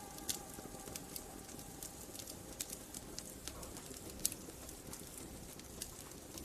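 Wood fire crackling in a fireplace: irregular sharp pops and snaps over a soft steady hiss, with faint music held low underneath.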